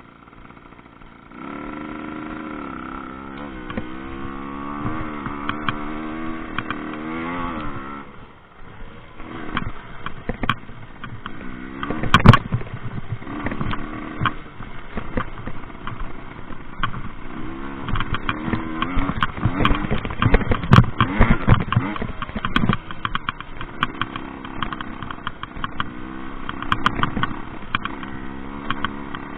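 Rieju MRT 50 two-stroke moped engine revving up and down repeatedly while riding off-road, easing off briefly about 8 seconds in. From about 9 seconds on, clattering knocks come with the engine, with a sharp bang about 12 seconds in.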